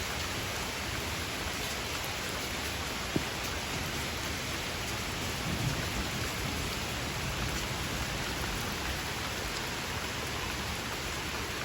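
Heavy rain falling steadily in a rainstorm, with a single sharp tap about three seconds in.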